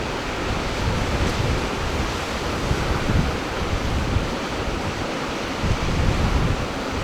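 Sea surf washing steadily, with wind buffeting the microphone in uneven low gusts.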